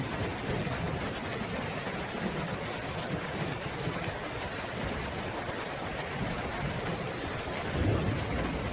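Steady rainfall with a low rumble of thunder underneath, which swells briefly near the end.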